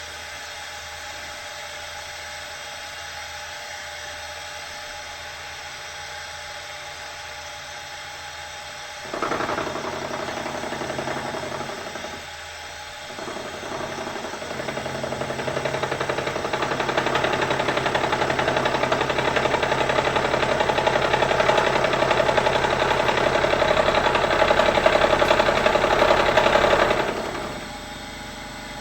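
Bridgeport milling machine running with a steady hum. About nine seconds in, the cutter starts cutting the metal workpiece with a loud, noisy cutting sound that drops briefly, builds again and holds, then stops shortly before the end: the part being squared up.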